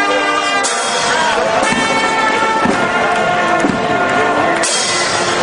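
Brass band playing, with sustained horn notes.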